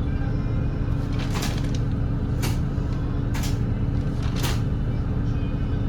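Volvo B8RLE double-decker bus's 7.7-litre D8K six-cylinder diesel running steadily under way, heard from inside the cabin as a low drone with a steady hum. Four short hisses cut through the drone, one every second or so, in the first half.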